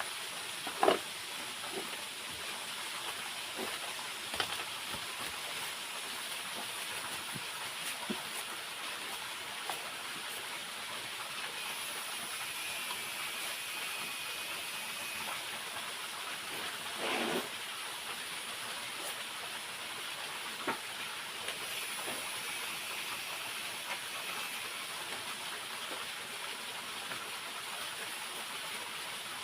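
Steady hiss of rushing water from a nearby waterfall, broken by a few scattered knocks. The loudest knock comes about a second in and a longer, duller one comes a little past halfway.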